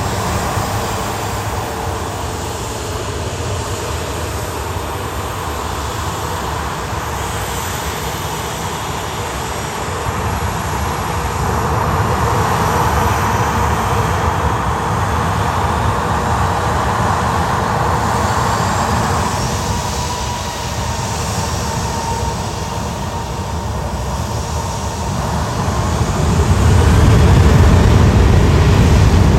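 Airliner engines running, a steady whine over a rumble that grows louder and deeper in the last few seconds.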